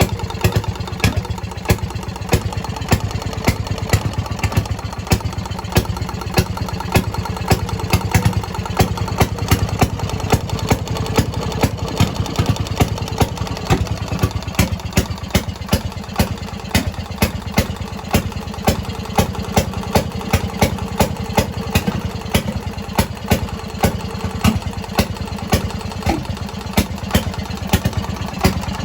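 Fairmont RO-C single-cylinder two-stroke rail car engine running steadily on a stand: rapid even firing, with sharper, louder pops two or three times a second.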